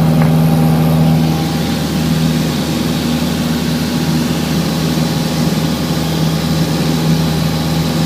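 Light aircraft's piston engine and propeller droning steadily, heard inside the cabin; the note eases slightly about a second in.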